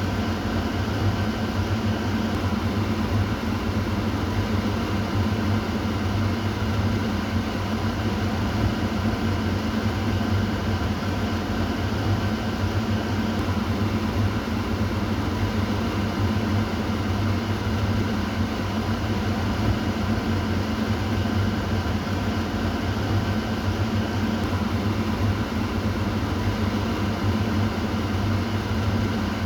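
Kitchen exhaust fan running continuously: a steady low hum with a faint whir over it, unchanging throughout.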